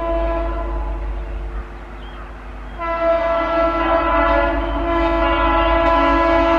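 Indian Railways express locomotive's horn sounding as the train approaches at speed. The horn dips for a couple of seconds, then comes back louder about three seconds in and holds steady.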